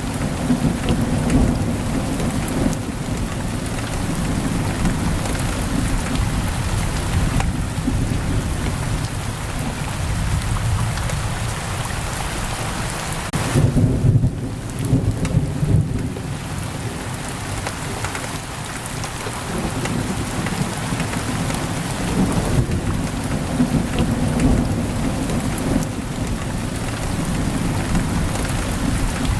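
Pouring rain hissing steadily against a window, with low rolling thunder rumbling underneath, loudest about halfway through.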